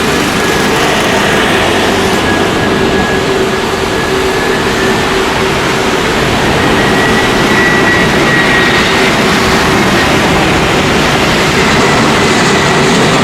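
Jet engines of an Airbus A320 on landing, a loud steady noise with a thin high whine that rises slightly after the middle.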